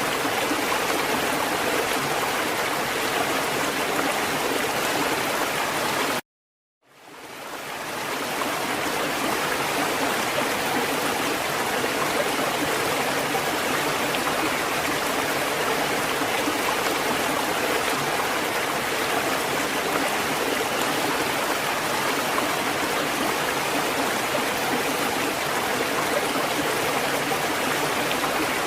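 Steady, unbroken rushing water, like a stream or surf wash. About six seconds in it cuts out completely for about half a second, then fades back in, a splice in the looped recording.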